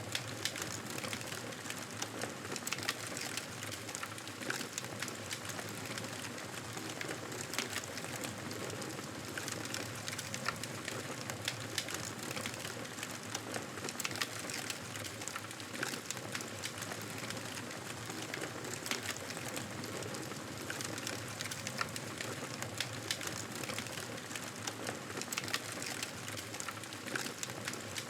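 Wood fire crackling in a fireplace: frequent small, irregular crackles and pops over a steady hiss.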